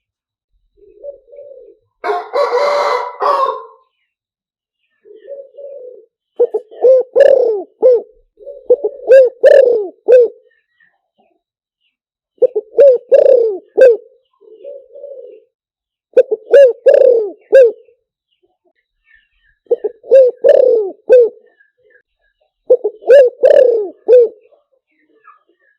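Spotted dove cooing: short phrases of low, wavering coos repeated every few seconds, a recording played as a lure call for wild doves. A louder, harsher call sounds about two seconds in.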